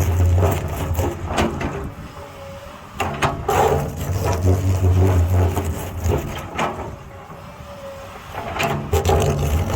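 Excavator diesel engine running and swelling under hydraulic load, easing off twice, with scattered sharp knocks and scrapes as the bucket digs into rock.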